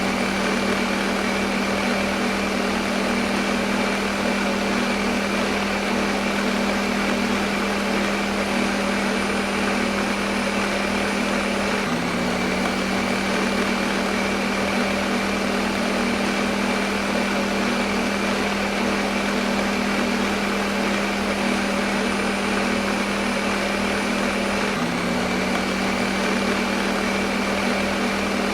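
Electric kitchen blender motor running continuously at a steady speed: a constant hum under a dense whirring hiss. The hum shifts slightly about twelve seconds in and again near the end.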